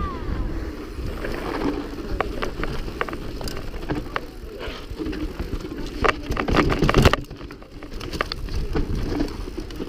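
Mountain bike riding fast over rough, dusty trail: tyres rumbling on loose ground, with the chain and frame rattling and sharp knocks from rocks and bumps, the loudest cluster about seven seconds in. Wind buffets the microphone.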